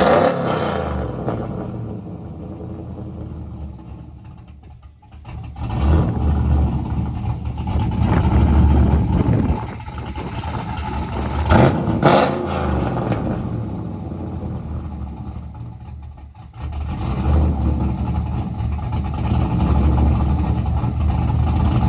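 Engine of a freshly cammed truck running and being revved while it is tuned, its loudness swelling and falling several times, with a sharp crack about twelve seconds in. Wind is buffeting the microphone.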